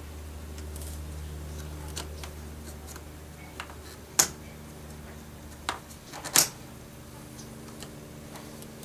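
A screwdriver prying at a small plastic screw cover on a 2005 Toyota Camry's interior door panel makes a few sharp plastic clicks and taps, the loudest about four and six seconds in. A low steady hum sits underneath and fades out about halfway.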